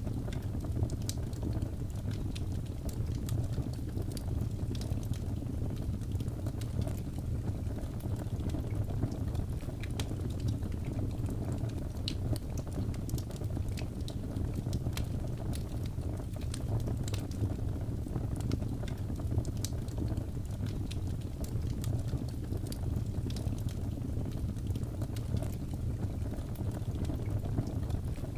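Wood fire burning: a steady low rumble of flames with frequent scattered crackles and pops from the burning wood.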